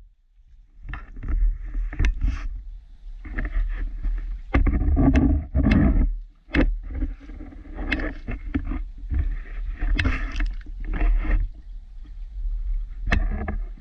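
Water splashing and sloshing around a kayak in irregular bursts about a second apart, over a steady low rumble.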